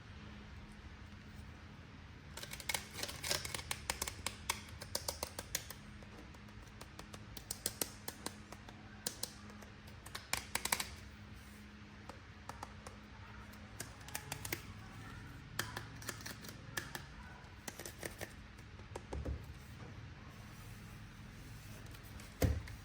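Plastic toy packaging and parts being handled, giving bursts of sharp clicks and crackles that come and go, over a faint steady hum. A dull thump near the end.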